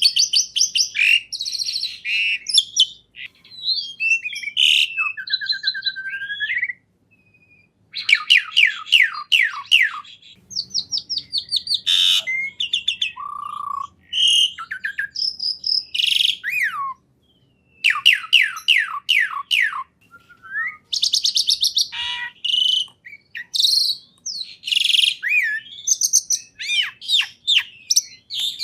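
Songbird singing a fast, varied song of chirps, rapid trills and whistled notes, in bursts with two short pauses.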